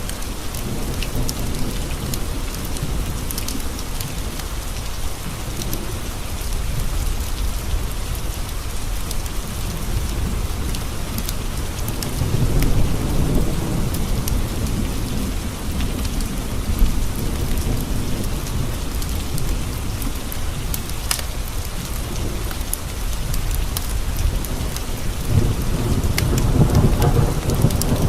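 Steady rain pattering on windowpanes, with scattered sharp ticks. Thunder rumbles low about twelve seconds in, and a second roll builds near the end.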